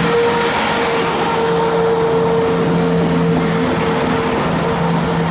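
A train running close by, a loud steady drone with a few held tones over a hiss.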